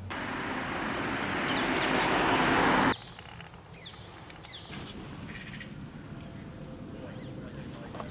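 A loud rushing noise grows steadily louder and cuts off abruptly about three seconds in. After it, birds chirp now and then over a quiet outdoor background.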